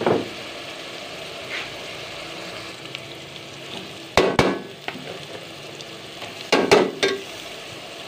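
Bitter gourd sizzling as it fries in an aluminium pot. There are sharp clatters at the start and again about six and a half seconds in. About four seconds in, cooked chana dal is poured into the pot with a splash.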